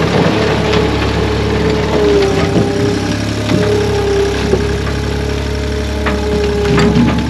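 Chainsaw running steadily at high speed, its pitch wavering slightly as it works, with a few sharp knocks, one early and two near the end.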